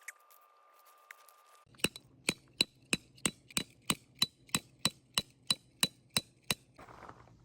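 A hammer striking a steel tent stake about fifteen times at a steady three blows a second, each blow a sharp clink with a brief metallic ring, driving the stake into the ground.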